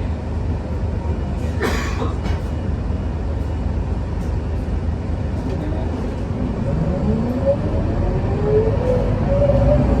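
Scania K230UB bus's five-cylinder diesel engine running steadily, with a short hiss about two seconds in. From about two-thirds of the way through, a whine rises steadily in pitch as the bus accelerates.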